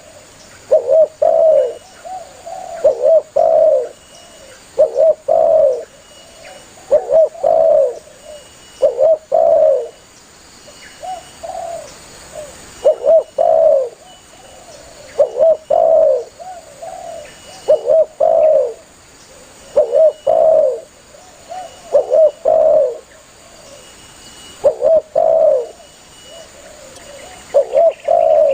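Spotted dove (tekukur) calling loudly: a phrase of a few rolling coos repeated about every two seconds. It is the bird's call to other doves.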